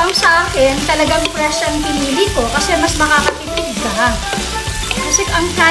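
Chopped vegetables sizzling in a stockpot as a wooden spoon stirs them round, under louder background music.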